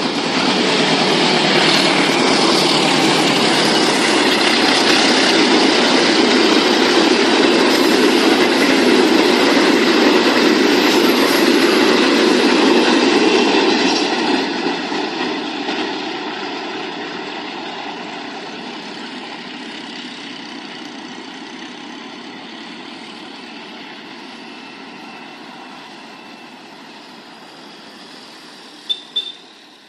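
Passenger train double-headed by CC 203 and CC 201 diesel-electric locomotives passing close by: a loud, steady rush of wheels on rail for about fourteen seconds, then fading gradually as it moves away. Two short sharp clicks come near the end.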